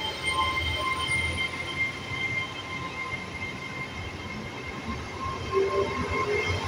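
GWR Class 802 bi-mode intercity train pulling out of the station on its underfloor diesel engines, its coaches rolling past close by. A steady low rumble with a faint, steady high whine.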